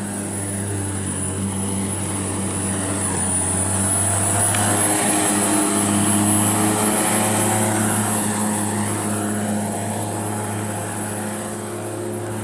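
Strimmer (string trimmer) running steadily with a droning motor note and a high whine, getting louder about four seconds in and easing off again near the end.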